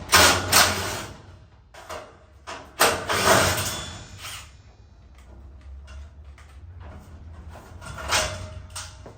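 Work on a metal garage door: a few loud, short scraping and clattering bursts, the loudest near the start and around three seconds in, with lighter knocks and rattles between.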